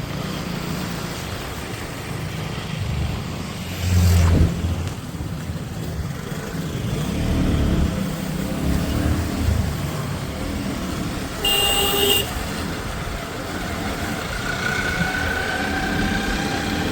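Road traffic heard from a moving motorbike: a steady low engine and road rumble, with a loud low thump about four seconds in. A vehicle horn honks once, briefly, about twelve seconds in, and a faint rising whine sets in near the end.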